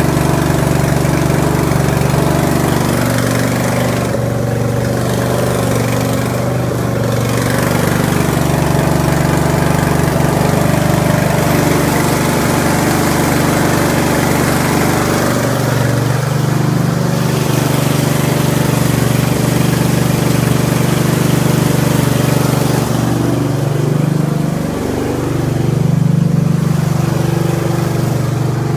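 Carbureted engine idling on full choke just after a cold start at minus 13 degrees, running steadily with the idle speed dipping and climbing back up around the middle and again near the end.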